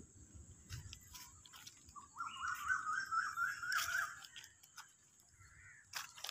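A bird calls in a quick run of short rising notes for about two seconds, midway through. Behind it are light scattered crunches of footsteps on dry leaves and a steady faint high whine.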